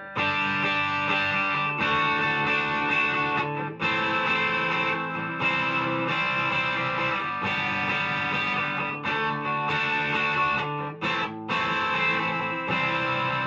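Epiphone Les Paul with Gibson 57 Classic humbuckers, played through a Marshall amp's gain channel: overdriven electric guitar chords ringing out, with short breaks between chord changes.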